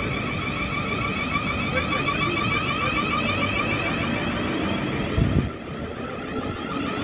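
Train at a station platform giving off a steady high-pitched whine over rumbling noise. A low thump comes about five seconds in, and the whine then fades.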